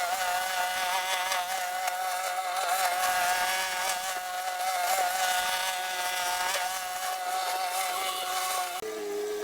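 A small engine running steadily with a high, slightly wavering whine, which drops abruptly to a lower pitch near the end.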